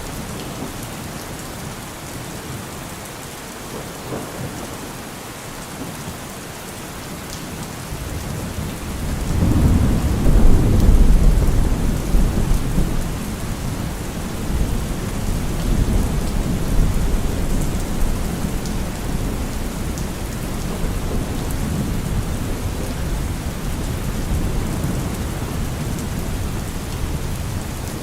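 Steady rain falling, with a long roll of thunder that builds about nine seconds in, is loudest soon after, then rumbles on and slowly dies away.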